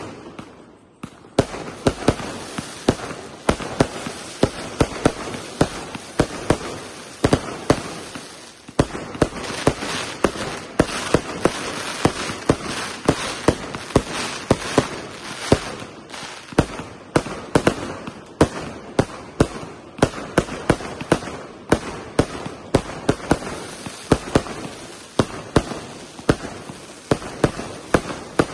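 A 300-shot 1.2-inch fireworks cake firing shot after shot in quick succession, several sharp bangs a second over a continuous crackle, with a brief lull about a second in.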